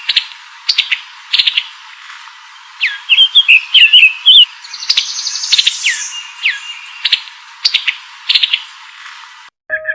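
A songbird calling: repeated falling whistled notes and sharp chirps, with a loud run of quick warbled notes about three to four seconds in. It stops just before the end.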